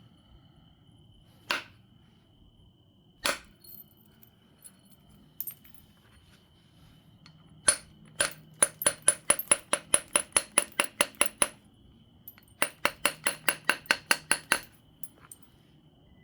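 Obsidian biface being knapped: two single sharp strikes, then two runs of rapid light taps, about five a second, against the stone.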